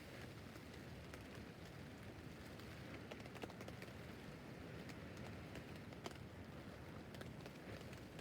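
Rain falling on a tent roof, heard faintly: a steady hiss with scattered sharper taps of individual drops, a few louder ones standing out.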